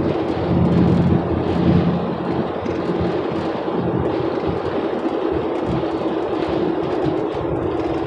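Truck driving, heard from inside the cabin: a steady engine hum over low road rumble.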